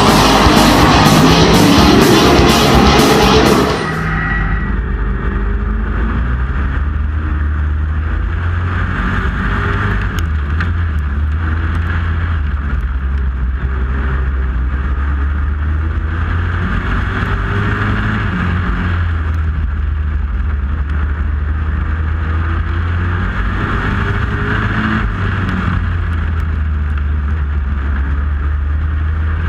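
Rock music that cuts off abruptly a few seconds in. A truck engine then runs steadily at a low, even pitch.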